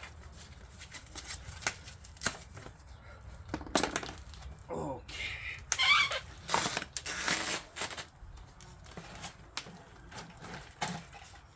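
E-bike shipping packaging being handled and pulled away: irregular rustles, tears and clicks, busiest in the middle, with a few short squeaks.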